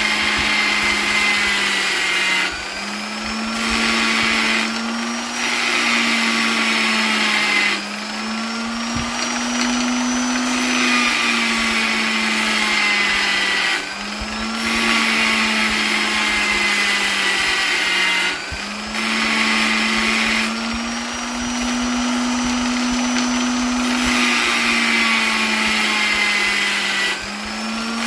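Electric polisher running continuously, its motor whine steady but wavering a little in pitch, with brief dips in loudness every few seconds.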